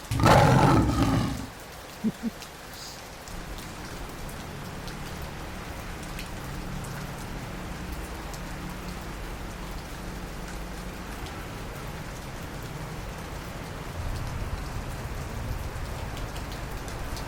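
Steady rain falling, with a loud burst of noise lasting about a second at the very start and a low steady hum underneath from about three seconds in.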